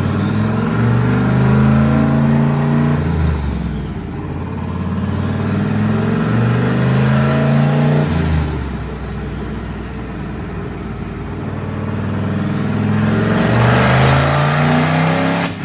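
Turbocharged OBS Ford truck engine at full throttle on a chassis dyno, exhausting through an open hood dump. Its pitch climbs three times, each run ending in a sudden drop like an upshift, with a faint high whistle rising alongside.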